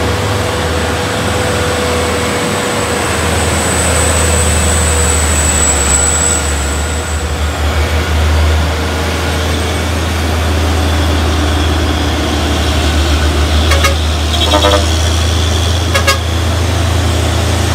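Heavy truck engine running under load with a steady low rumble, and a few short horn toots near the end.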